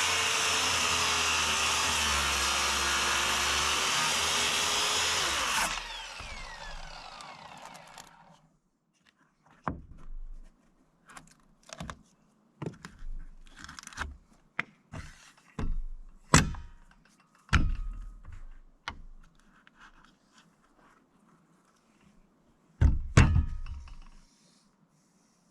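An electric saw runs loud and steady, cutting board edges, its pitch sagging slightly under load. It is switched off about five and a half seconds in and winds down with a falling whine. Scattered wooden knocks and thunks follow as boards are handled, with a louder pair of knocks near the end.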